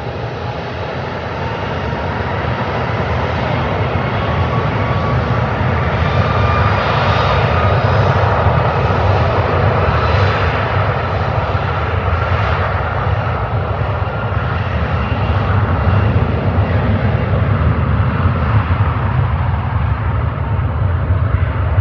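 Airbus A330-300's twin Rolls-Royce Trent 700 turbofans at takeoff power, a loud steady roar that swells over the first several seconds and then holds, with a faint whine rising in pitch.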